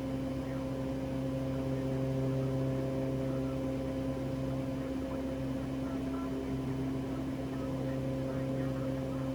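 Steady cockpit drone of a Cessna Conquest 441's twin Garrett TPE331 turboprop engines and propellers in the climb, an even hum of a few fixed tones.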